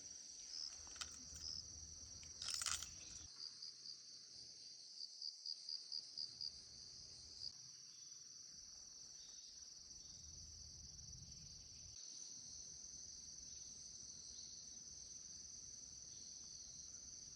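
Faint night insects chirping: a steady high-pitched chorus, with a run of about seven quick chirps, roughly three a second, a little over four seconds in.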